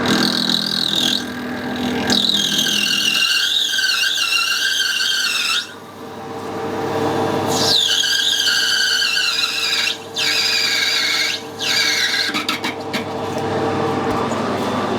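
Lathe parting tool squealing as it cuts through brass bar stock: a high, wavering screech in two long spells, broken for about two seconds near the middle and briefly twice more, stopping near the end. A steady hum from the running lathe lies underneath.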